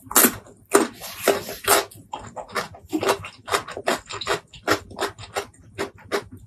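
Close-miked crisp crunches of biting into a raw cucumber slice, loudest in the first two seconds, followed by steady chewing at about three chews a second.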